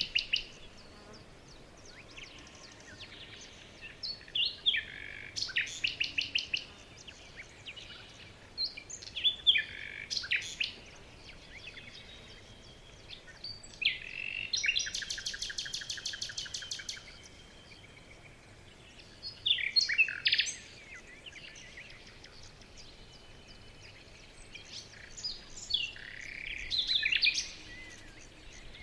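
Songbirds singing in short bursts of chirps and whistles a few seconds apart, with a fast trill of evenly repeated notes lasting a couple of seconds about halfway through.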